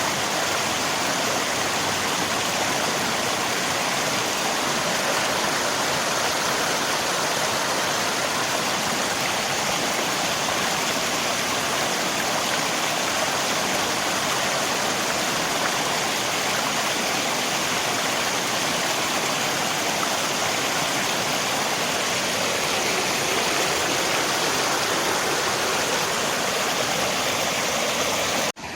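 Steady rushing of river water mixed with falling rain, an even unbroken wash of sound. Just before the end it cuts off abruptly and comes back quieter.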